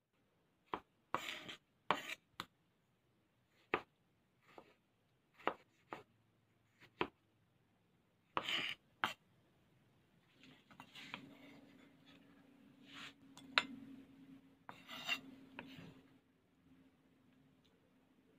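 Kitchen knife chopping tomato on a wooden cutting board: irregular sharp knocks of the blade striking the board, then a denser stretch of scraping and quick taps as the blade works through the pieces, with a faint steady hum beneath.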